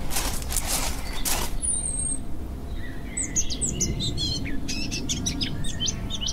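Small birds chirping and twittering in quick, high calls, as a countryside sound effect. In the first second and a half come a few short rushes of noise, about two a second.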